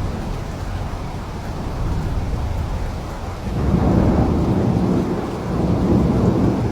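Steady rain with low rolling thunder, the rumble swelling about halfway through.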